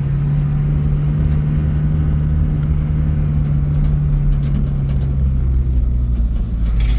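A motor vehicle's engine running steadily at an even speed, a loud constant low hum.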